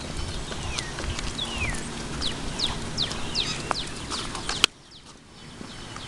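Birds chirping, a quick series of short falling calls, over low background noise. A sharp click comes about four and a half seconds in, and after it the sound drops quieter.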